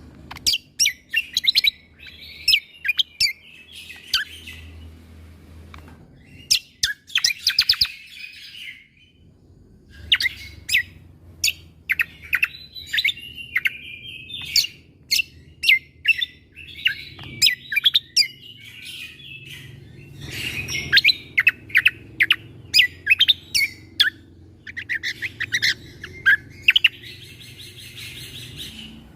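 Cucak kombo (kecial kombo) songbird singing: bursts of sharp, rapid, piercing notes and short quick phrases, broken by brief pauses. These are the 'shot' notes that bird keepers want a young bird to learn.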